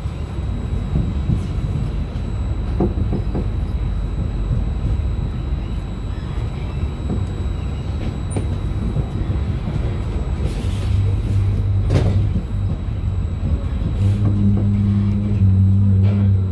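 Cabin sound of a Trenitalia double-decker regional electric train rolling slowly over the tracks: a steady low rumble of wheels on rail with a few sharp clicks as it passes over points and joints. A low steady hum comes in about eleven seconds in and again near the end.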